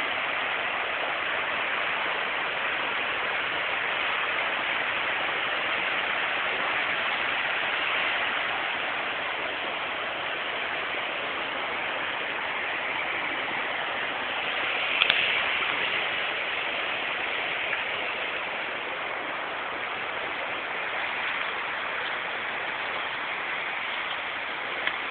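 Steady rush of a river running high through rapids, with one short knock about halfway through.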